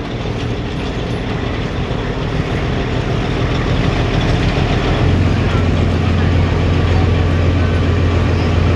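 Pro stock semi truck's diesel engine running steadily and growing louder, its deep low drone strengthening about halfway through.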